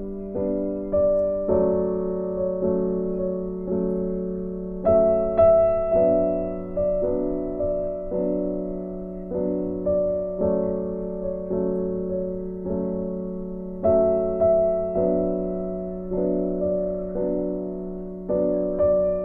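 Soft background piano music: a slow melody of struck notes that fade away one after another, with a brief drop in sound right at the end.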